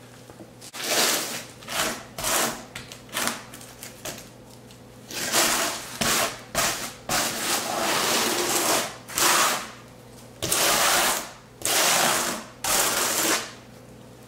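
Steel trowel scraping as a layer of thinset mortar is spread over cement board, in a series of strokes: short quick ones at first, then longer sweeps.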